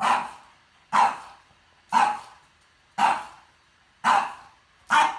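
A dog barking steadily, six single barks about a second apart.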